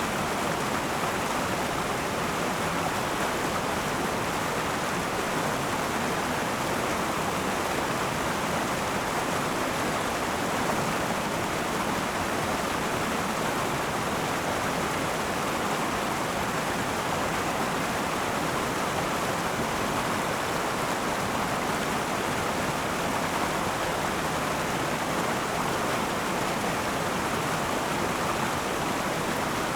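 River water flowing and rushing steadily over stones, an even unbroken rush.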